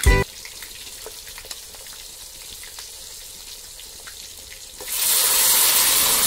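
Vegetables frying in an iron wok over a wood fire: at first a quiet crackly sizzle with scattered small pops and crackles. About five seconds in, a loud, steady sizzling hiss starts suddenly as steam billows from the pan.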